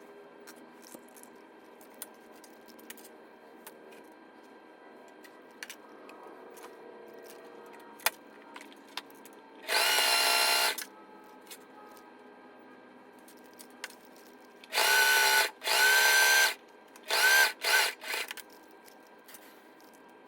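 Heavy-duty sewing machine running in short bursts of motor whine: one run about halfway through, then several quick stop-start runs near the end, with faint clicks between them.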